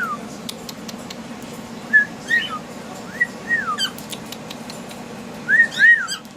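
Cockatiel whistling: short rising-and-falling whistle notes in brief phrases of two or three, four phrases in all, with the loudest near the end. A few light clicks and a steady low hum sit underneath.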